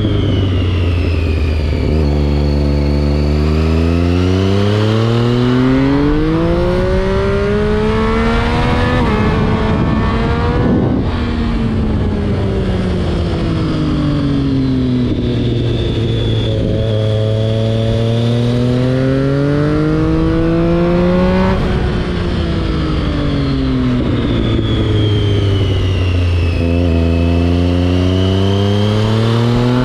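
2011 Triumph Street Triple 675's inline-three engine through an SC Project exhaust, heard onboard over wind rush. It pulls up through the revs about 2, 16 and 27 seconds in, and winds down in between as the throttle is eased off.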